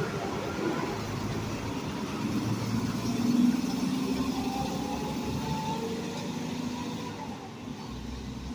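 A truck's engine running as it moves, loudest about three and a half seconds in, then slowly fading away.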